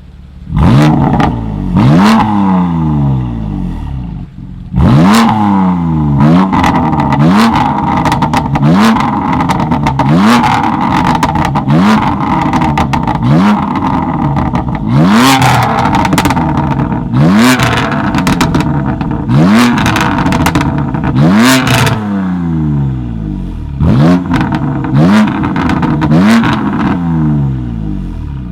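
Tuned car engine revved hard in short, repeated blips, one every second or two with a short pause about two thirds of the way in, and the exhaust crackling and popping as the revs fall.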